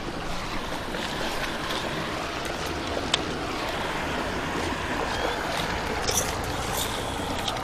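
Steady wind and water noise around a kayak on open water, with a few light clicks and knocks of fishing gear or hull, one about three seconds in and a couple more near the end.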